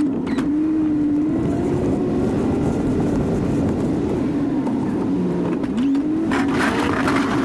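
Chevy 2500 pickup truck running steadily while plowing snow, its engine note wavering slightly in pitch. A louder rush of noise joins about six seconds in.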